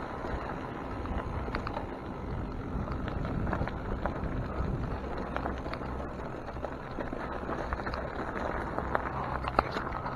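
Mountain bike riding on a trail: steady rolling and wind noise with scattered light clicks and rattles from the bike.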